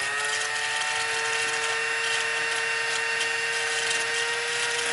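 Small electric power tool motor spinning up and running at a steady high-pitched whine, with a rough scratching over it.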